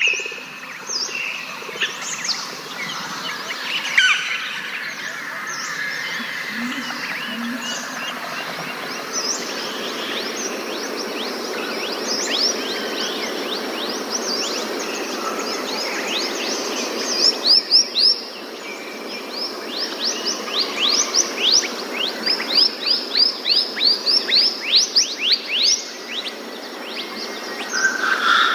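Forest birds chirping and calling over a steady background hiss. In the second half one bird repeats rapid runs of short, falling chirps, a few a second.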